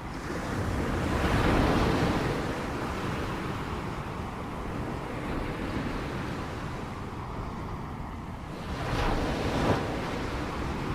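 Ocean waves washing onto a shore: a steady rush of surf that swells twice, once near the start and again near the end.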